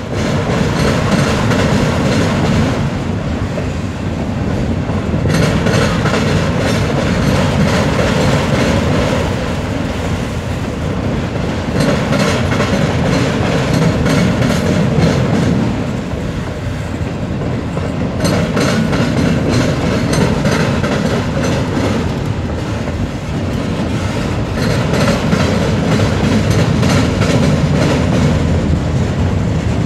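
Freight train of autorack cars rolling past: a steady rumble of steel wheels on rail with repeated clicks of wheel sets over the track, swelling and easing every few seconds as the cars go by.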